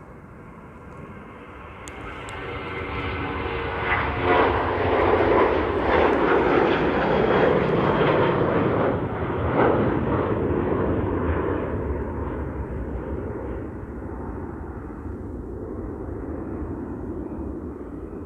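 Jet airliner passing by, its engine noise swelling over a few seconds to a loud rush, then slowly fading. Steady wind rumble on the microphone underneath.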